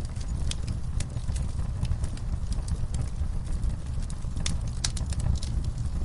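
Wood fire burning in a fireplace: a steady low rumble of flames with irregular sharp crackles and pops, the loudest pops coming about four and a half to five seconds in.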